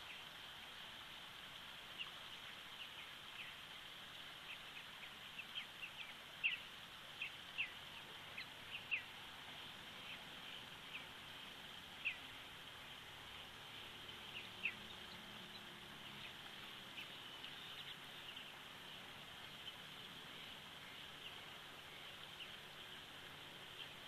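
Short, high bird chirps, most falling in pitch, scattered singly and in small clusters over a steady faint hiss.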